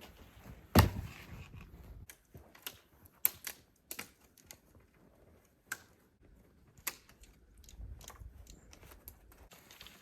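Firewood being handled: a heavy thud about a second in, then irregular sharp snaps and clicks of wood.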